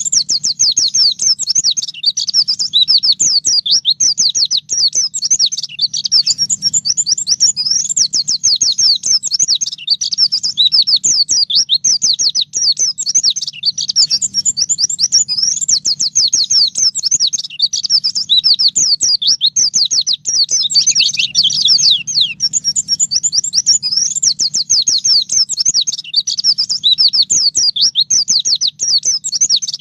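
White-eye (pleci) singing a fast, unbroken run of high, rapid chirps and trills.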